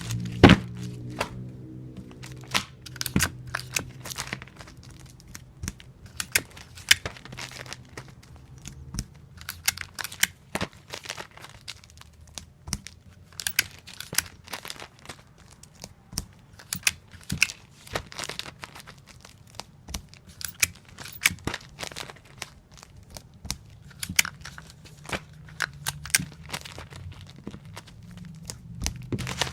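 Adhesive tape pulled off a dispenser roll and torn on its cutter again and again, in quick sharp rips and clicks with crinkling between, as comic books are taped up. A steady low hum sits underneath at the start and returns near the end.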